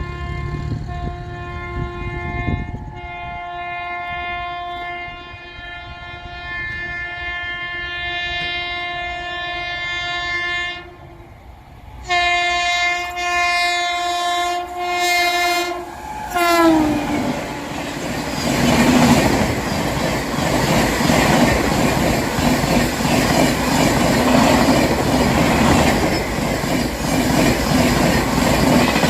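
Indian Railways express train approaching at high speed: the locomotive horn sounds one long blast of about eleven seconds, then a second blast of about four seconds whose pitch drops sharply as the locomotive passes. From then on the train rushes past with a loud steady roar of wheels on rail and clickety-clack.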